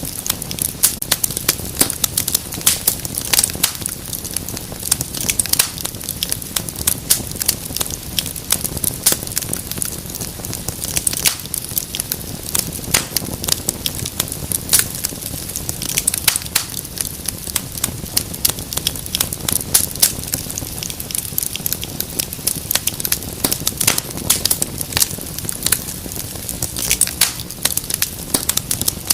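Wood fire crackling in a fireplace: dense, irregular pops and snaps over a low, steady rumble of burning.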